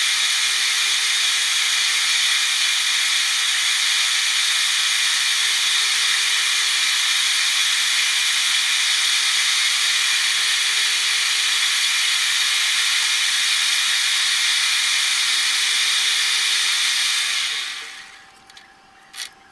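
A metalworking machine running with a steady hissing noise that dies away near the end, followed by a sharp click.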